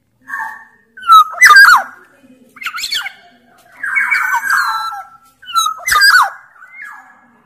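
Black-naped oriole (kepodang, Sumbawa form) calling: about six short calls separated by brief pauses, sweeping whistled notes mixed with a longer, harsher call near the middle.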